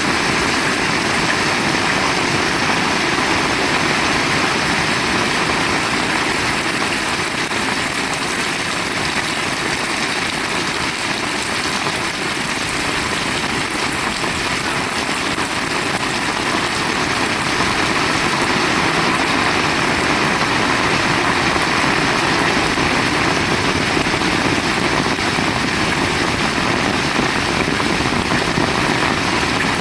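Heavy rain falling steadily, a loud, dense, even hiss with no break.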